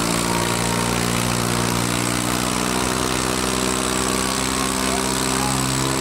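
Swaraj 855 tractor's three-cylinder diesel engine running steadily at a constant speed.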